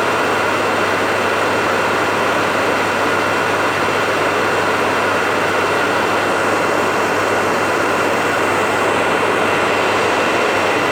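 Hair dryer running steadily, a continuous rushing of air over a faint steady motor whine, with no change in speed, played as white noise to soothe a baby to sleep.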